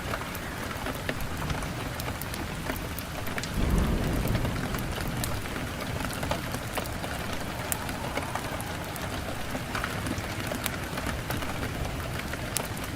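Wood fire burning in a fireplace, crackling with many sharp pops over a steady hiss. A low rumble of the flames swells about three and a half seconds in.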